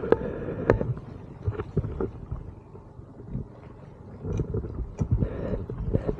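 Inflatable boat underway on the sea: irregular slaps and knocks as the hull hits the waves, over a low wind rumble on the microphone.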